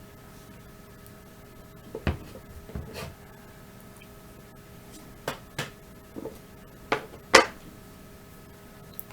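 Stones being handled and set down on a hard surface: a string of separate sharp knocks and clacks, the loudest about seven seconds in.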